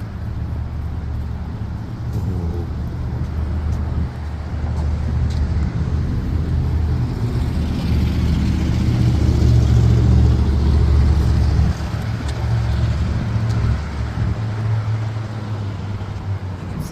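Road traffic on a wet city street: a heavy, steady engine rumble with tyre hiss that builds to its loudest about two-thirds of the way through, then the low rumble drops off suddenly.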